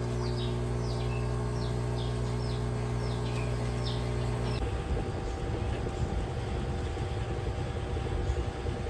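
A steady engine hum with repeated short, falling bird chirps over it. About halfway through, the hum gives way to a rougher, noisier running sound.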